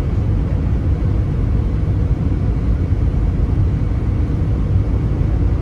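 Steady low rumble of an Airbus A320's engines and airflow heard from inside the passenger cabin.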